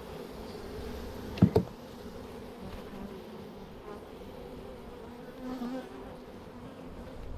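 Honey bee colony buzzing steadily in a steady hum. About a second and a half in come two sharp knocks in quick succession.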